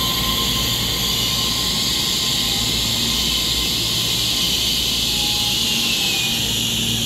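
Taiwan Railway EMU3000 electric multiple unit moving past the platform in an underground station: a steady noise with a high hiss over a low rumble.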